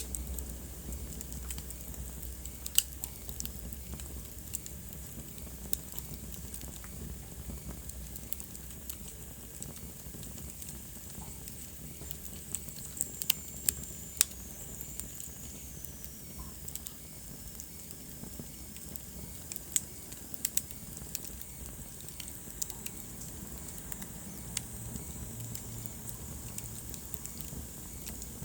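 Wood fire burning in a fireplace: a steady soft hiss with irregular sharp crackles and pops, and a faint high whistle of escaping gas midway.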